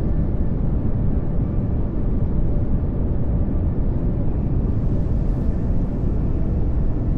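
Steady pink noise: an even, unbroken hiss weighted toward the low end.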